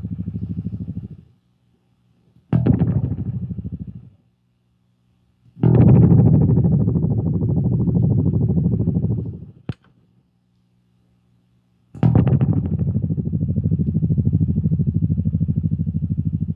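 Fender Jazz Bass played through an MXR M175 Digital Time Delay into an Orange Crush Bass 50 amp. Sustained notes are struck and left to ring in four short phrases with gaps between them, each carrying a fast wavering from the delay unit's modulation. A brief click falls between the last two phrases.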